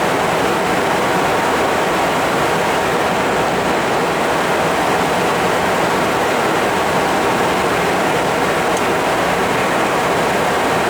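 Steady rushing noise of a Embraer Phenom 300 business jet in flight, airflow and turbofan engine noise blended into an even hiss with no changes.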